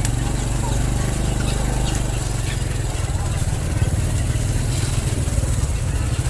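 Motorcycle engine running steadily, a low rumble with a fast pulse.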